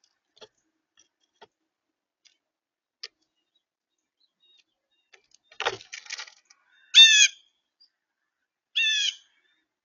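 A bird at a feeder gives two short calls about two seconds apart, after a few faint clicks and a brief clatter of taps.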